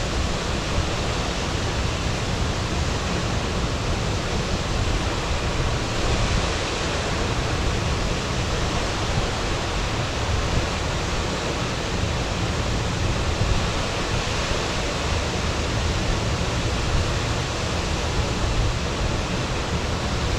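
Waterfall pouring steadily into a mountain gorge pool, a constant even rush of falling water.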